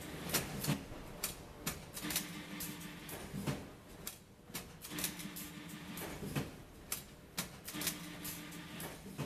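Fully automatic plastic strapping machine running repeated strapping cycles, each a low motor hum of about a second with sharp clicks, coming round about every three seconds.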